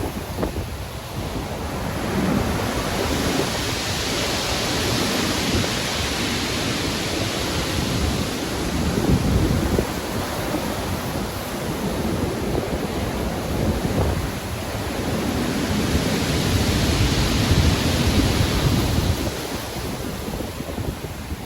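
Stormy sea: waves surging and breaking in a continuous rushing hiss over a deep rumble. Two larger swells build and fall away, one about four seconds in and another about sixteen seconds in.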